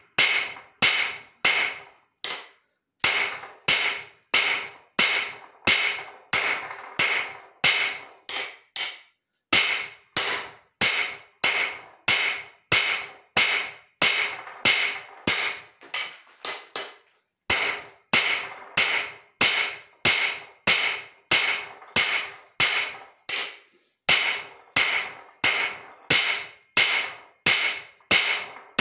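Hand hammer striking leaf-spring steel on an anvil, about two ringing blows a second in runs of steady strikes with short pauses between them.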